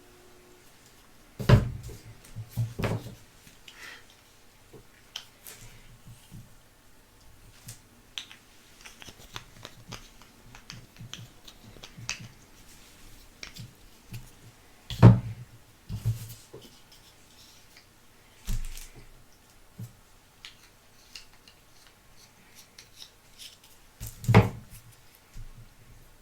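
Carded Pez dispenser packaging being handled and opened by hand: scratching, rubbing and small clicks, with three loud knocks, about a second and a half in, about halfway through, and near the end.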